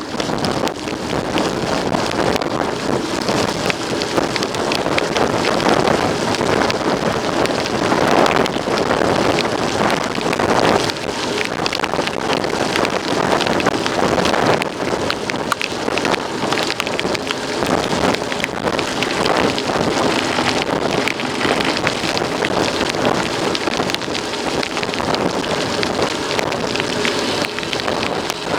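Steady rough noise of a mountain bike being ridden: wind buffeting the microphone, with a constant crackle and rattle from tyres and bike on rough ground.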